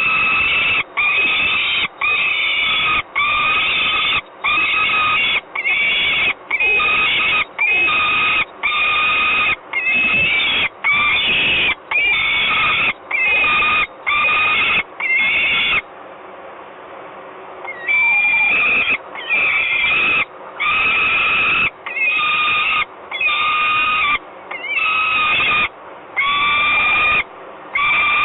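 Peregrine falcon making a fuss with a long series of loud, drawn-out wailing calls, about one a second, with a pause of about two seconds midway.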